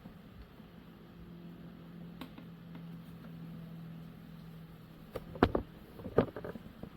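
A faint steady hum for a few seconds, then a few sharp knocks and clicks, the loudest of them coming close together near the end.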